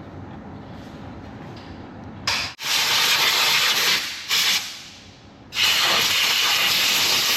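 Compressed-air blowgun blowing in three blasts: a long one starting about two seconds in, a short one, then another long one.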